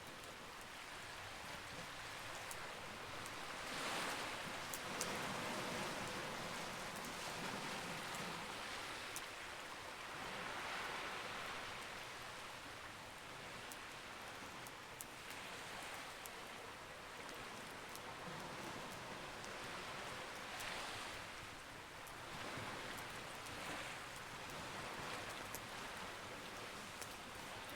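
Campfire crackling with sparse sharp pops over the steady rush of sea waves, which swell and ease back every five or six seconds.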